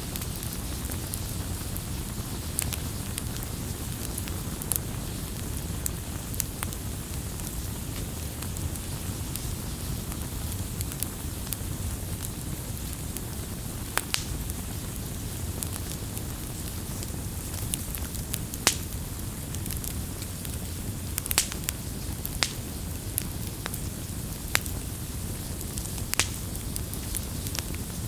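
Wood bonfire burning, with sharp crackles and pops at irregular intervals over a steady low rumble and hiss of the flames.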